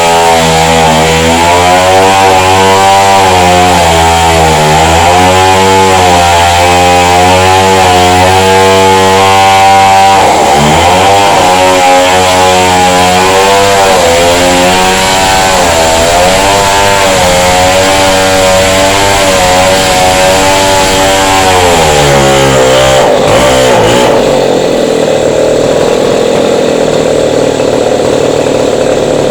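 Chainsaw running under load as it cuts into a masonry wall, its engine pitch wavering up and down as the chain bites. About ten seconds in the pitch dips and picks up again; near the end the engine pitch falls away and the sound turns into a steadier rushing noise.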